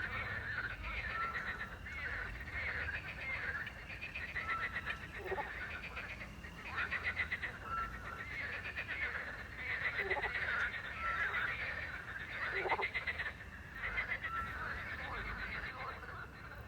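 A chorus of frogs croaking at night, their calls a dense run of rapid rattling pulses overlapping one another. A short, high whistled note repeats every couple of seconds behind them.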